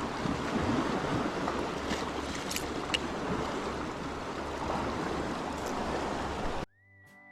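Sea water washing at the shore, a steady rush with some wind, that cuts off abruptly near the end as a single held tone from music comes in.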